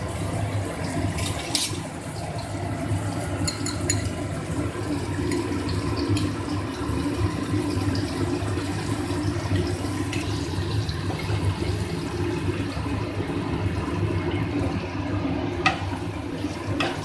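Cauliflower and potato pieces frying in hot oil in a kadhai: a steady sizzle, with a few light clicks of a spatula against the pan, one of them near the end as stirring begins.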